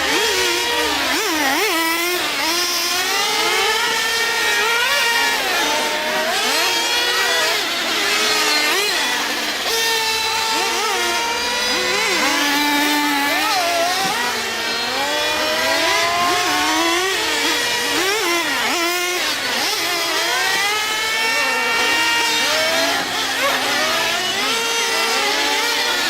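Several nitro RC trucks' small two-stroke glow engines running together, each one's high-pitched whine rising and falling over and over as it revs up and backs off.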